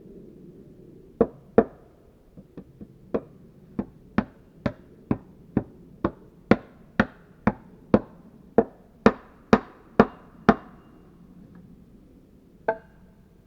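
Wooden mallet hammering a wooden nail (peg) into the log subfloor: about twenty sharp knocks at roughly two a second, a few lighter taps among the first, then a pause and one last knock near the end.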